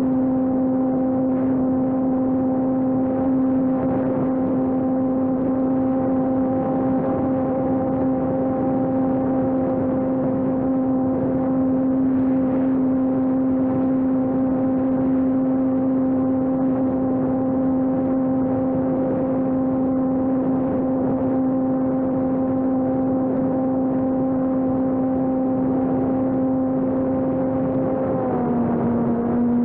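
Electric RC airplane's brushless motor and propeller droning steadily in flight at constant throttle, one steady pitch; near the end the pitch drops slightly.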